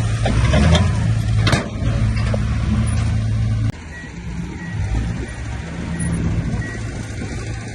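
Heavy diesel earthmoving machinery running steadily with a deep engine drone and a single sharp knock. The engine sound drops off abruptly about four seconds in, after which faint high beeps repeat about twice a second.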